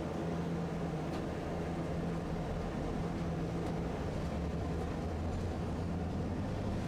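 Tosaden streetcar running along its line: a steady rumble with a constant low hum.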